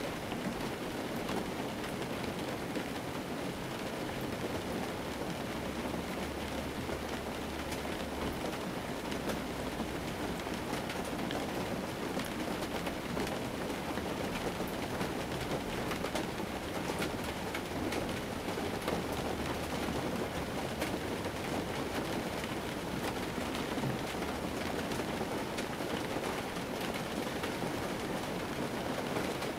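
Rain falling on a car, heard from inside the cabin: a steady patter on the body and windshield with scattered sharper drop hits.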